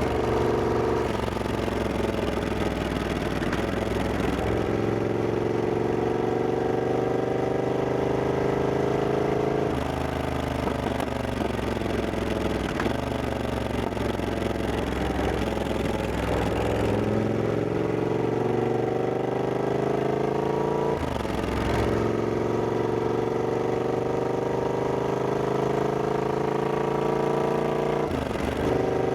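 Triumph Scrambler 1200X's 1200 cc parallel-twin engine pulling through the gears, its pitch rising steadily and then dropping sharply at each shift or roll-off, about five times.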